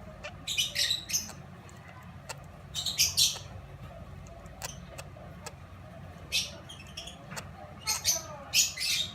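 Young lovebird chicks calling in short, high-pitched, harsh chirps. The calls come in several clusters a few seconds apart, with faint clicks between them.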